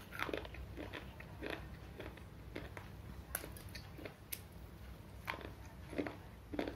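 Someone biting and chewing hard pieces of broken slate pencil: irregular sharp crunches, about two a second.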